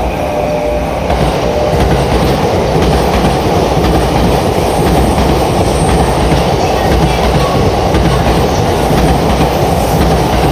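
E657 series limited express electric train passing through a station at speed without stopping: a steady rush and rumble of wheels on rail with some clatter, growing louder about a second in as the cars reach the platform.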